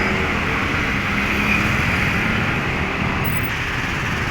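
Heavy road traffic with trucks and cars, a steady low engine rumble mixed with road noise.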